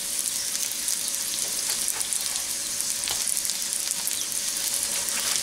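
Chicken dumplings sizzling as they shallow-fry in a little oil in a nonstick pan, a steady hiss with fine crackle. A few light taps and scrapes of a slotted spatula come through as the golden-bottomed dumplings are turned over.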